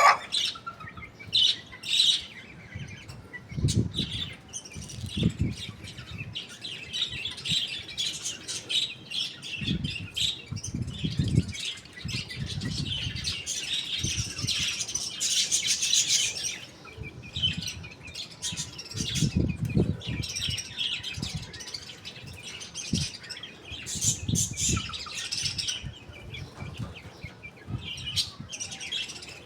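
Small birds chirping in many short, high calls throughout, with repeated low rumbles underneath every few seconds.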